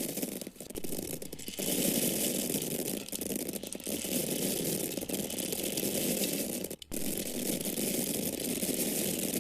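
Dried corn kernels pouring and falling in a dense, continuous patter, with brief breaks about half a second in, around a second and a half, and a short pause near seven seconds.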